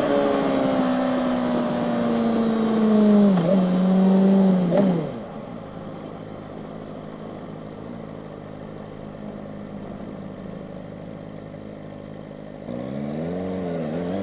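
Kawasaki ZX-4RR's 399 cc inline-four engine slowing with falling pitch and two quick throttle blips, then idling steadily for about seven seconds before revving up again near the end.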